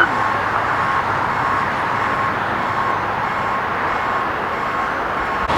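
A vehicle's reverse warning beeper sounding a steady, evenly repeated beep over the constant noise of vehicle engines running.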